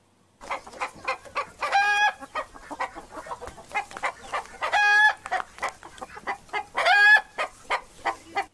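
Chicken clucking in a quick, steady run of short clucks, broken by three longer, higher calls about two, five and seven seconds in.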